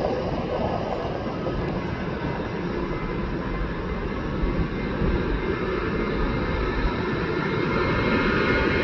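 Boeing 737 jet engines, a steady rumble with a faint whine, growing a little louder in the second half.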